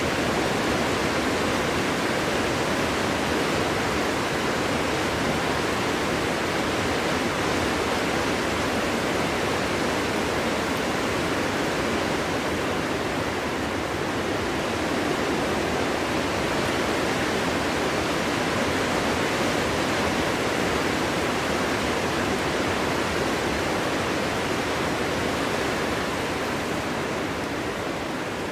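Strong wind blowing steadily, a dense even rush with no gusts or lulls to speak of, easing slightly near the end.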